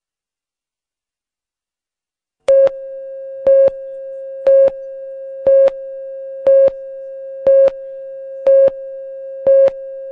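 Television broadcast countdown leader: silent for the first couple of seconds, then a steady mid-pitched tone with a louder short beep on it once a second, eight beeps in all, marking each number of the countdown.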